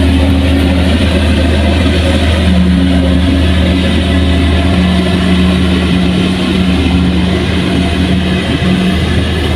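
A heavy machine's engine running steadily at constant speed, with a deep, even hum.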